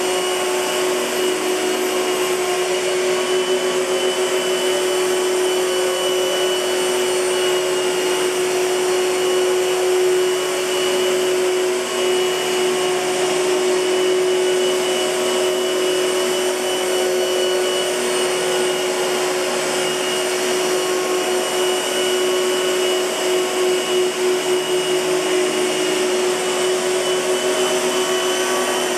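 1998 Hoover Futura canister vacuum cleaner running steadily, a constant motor whine with a strong steady hum and airflow rush.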